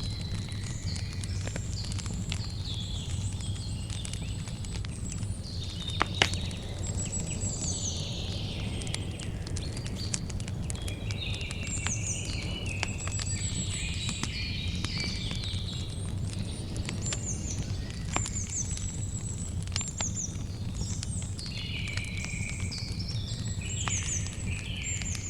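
Campfire crackling: scattered sharp pops, one loud pop about six seconds in, over a steady low rumble. Birds sing repeated chirping and trilling phrases throughout.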